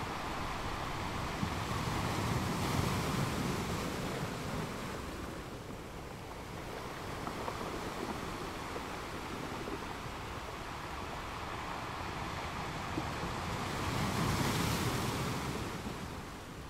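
Gentle ocean waves washing in, a steady rush of surf that swells twice, a couple of seconds in and again near the end.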